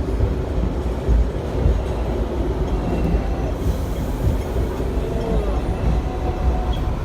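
Hong Kong double-decker electric tram running along its tracks, heard from on board: a steady low rumble.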